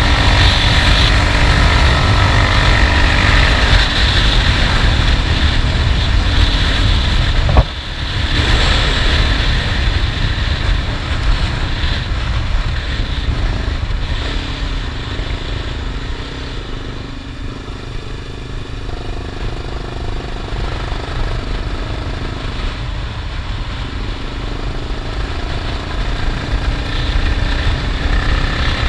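Honda XRE 300 single-cylinder motorcycle engine running while riding, with heavy wind noise on the microphone. About seven and a half seconds in there is a sharp click and a brief dip in the engine sound; the engine quietens through the middle and picks up again near the end.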